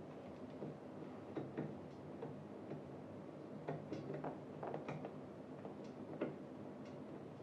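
Light, irregular clicks and taps of screws and metal chair parts being handled and fitted during assembly, over a faint steady low hum.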